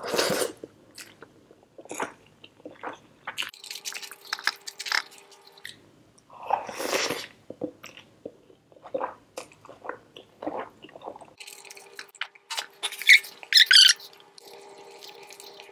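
Close-miked chewing of handfuls of chicken biryani: wet mouth noises in irregular bursts, with a cluster of sharper bites about thirteen seconds in.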